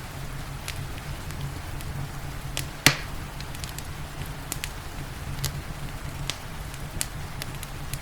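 Wood fire crackling, with scattered sharp pops and one loud pop about three seconds in, over a steady low rumble and an even hiss of rain.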